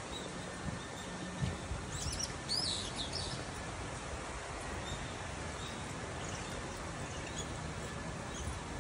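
A bird chirps a few times, briefly, about two to three seconds in, over a steady hiss of outdoor background noise.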